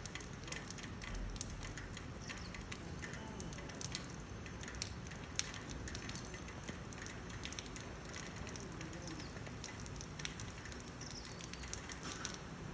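Rain falling: a steady hiss with dense, irregular patter of drops.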